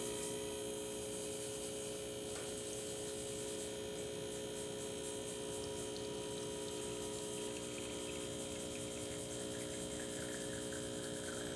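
Steady electric hum from the Pasquini espresso machine, several constant tones holding level without change.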